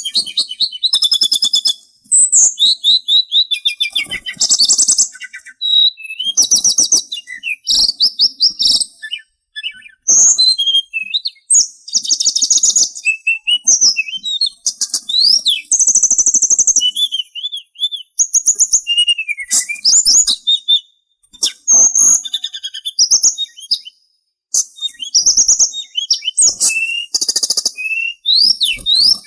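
Sulingan songbird singing: rapid, varied chirps, trills and quick gliding whistles, in phrases of a second or two with short pauses between them.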